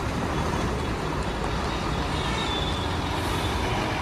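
Steady motor-vehicle road and traffic noise, even throughout with no distinct events.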